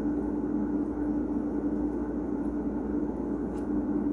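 Steady mechanical background hum with a constant low tone, and a faint click about three and a half seconds in.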